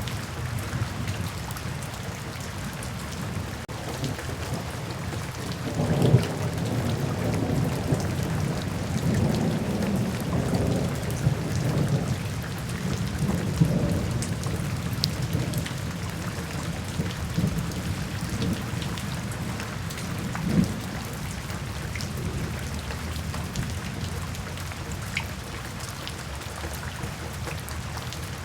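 Steady rain falling, with thunder rolling in low about a fifth of the way in and rumbling for roughly ten seconds, then a shorter thunder boom about two-thirds of the way through.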